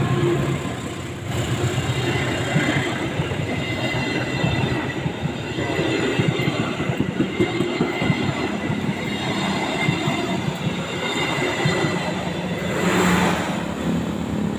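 Passenger train rolling past, its wheels clattering over the rails with a faint steady high-pitched ring; the noise swells briefly near the end.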